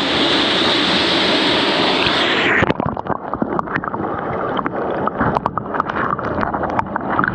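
Steady rush of a waterfall pouring into a pool. About two and a half seconds in it gives way to close, muffled gurgling and splashing water with many small irregular clicks and pops.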